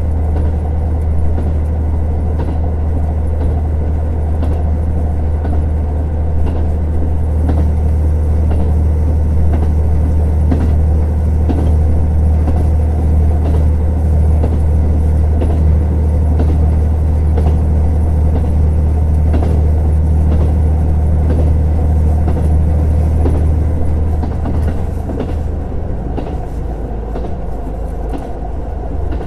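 KiHa 150 diesel railcar running on the line, its diesel engine droning steadily under power with light clicks from the wheels over the rails. The engine eases off about five seconds before the end, and the drone drops.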